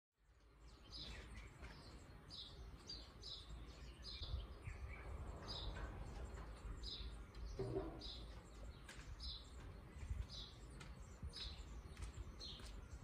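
A small bird chirping repeatedly, short high chirps about once a second, over a low steady background rumble.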